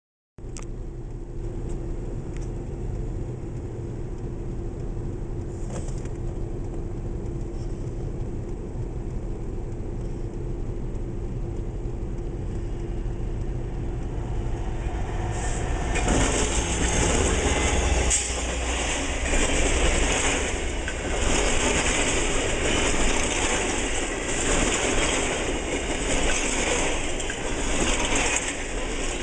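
Freight train approaching and passing close: a low rumble with a steady hum for about the first half, then from about halfway in a loud wheel-on-rail roar with a rhythmic clatter as a string of flatcars rolls by.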